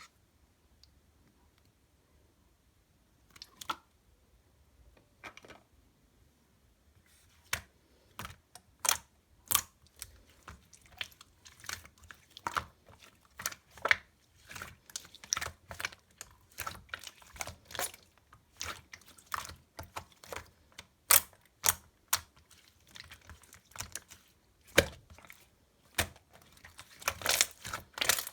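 Chewy, jelly-textured slime being squeezed and pressed by hand, making sticky clicks and small pops. A few isolated clicks at first, then a quick, dense run of them from about seven seconds in.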